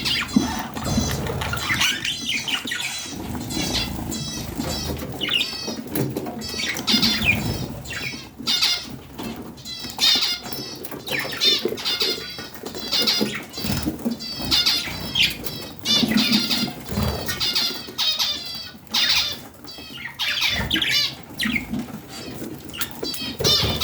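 Budgerigars chattering and warbling: a dense, continuous stream of quick, wavering chirps and squeaks from several birds.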